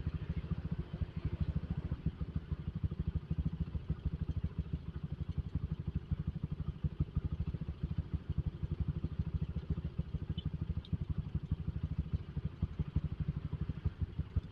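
Suzuki Satria FU motorcycle's single-cylinder four-stroke engine running at a steady cruise while riding, heard as a rapid, even exhaust pulsing.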